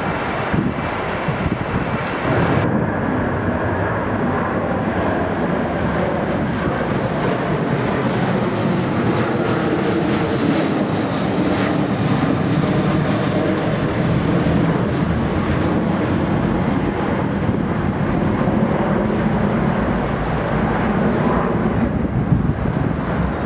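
Large jet airliner's engines making a loud, steady rumble.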